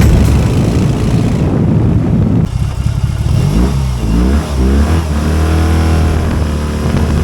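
BMW R18's 1802 cc boxer twin through modified fishtail exhaust pipes, the revs rising and falling, then settling to a steady idle near the end.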